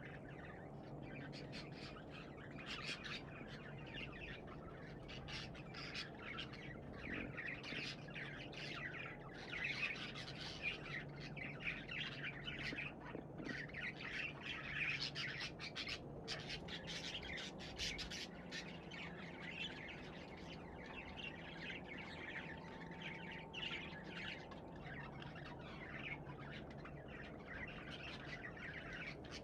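Pet budgerigars chattering: a dense, continuous stream of short chirps and squawks from several birds.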